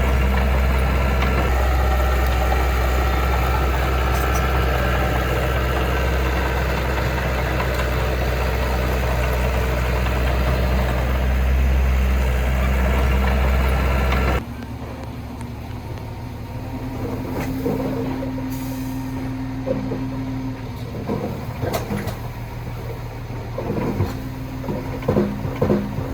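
Heavy diesel engine of earthmoving machinery running steadily with a deep hum. About halfway through it cuts off abruptly, and a quieter engine sound follows with scattered knocks and clanks.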